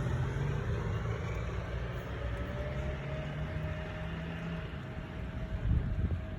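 Steady low hum of a car engine running, with a faint even whine above it.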